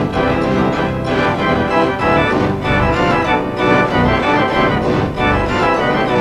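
Children's TV theme music with an organ-like sound, in a 'G major' edit: the tune layered with pitch-shifted copies of itself.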